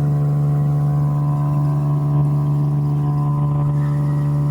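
Vacuum pump for a vacuum-box weld leak test running steadily with a constant low hum, drawing vacuum on the box over a tank-floor weld.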